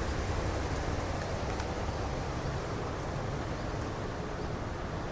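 Steady outdoor background noise: a low rumble with a hiss above it.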